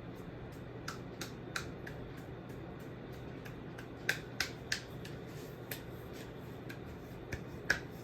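52-inch ceiling fan running on high speed: a steady motor hum and air rush, with sharp clicks coming in quick groups of two or three a few times.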